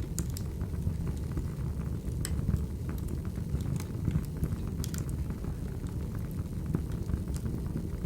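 Firewood burning: a steady low rumble of the flames with scattered sharp crackles and pops.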